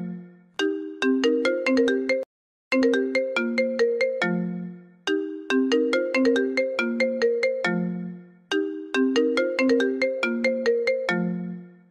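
iPhone ringtone playing on a loop: a quick run of short, fast-fading mallet-like notes that ends on a lower, longer note, repeating about every three and a half seconds. A brief dead-silent gap about two seconds in marks the seam of the loop.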